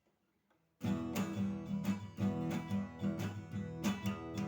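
Acoustic guitar strummed in a steady chord rhythm, starting just under a second in: the instrumental intro of a song.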